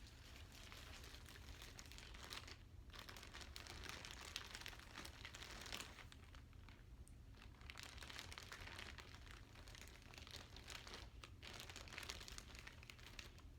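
Soft crinkling and rustling of a plastic bag as it is handled, with two short pauses.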